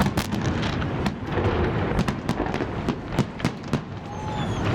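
Holiday fireworks salute: a rapid, irregular series of sharp bangs, several a second, over a continuous low rumble.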